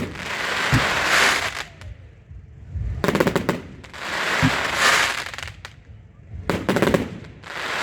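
Fireworks going off in a repeating cycle about every three and a half seconds: a quick rattle of sharp cracks, a short low thump, then a long crackling hiss that swells and fades, three times over.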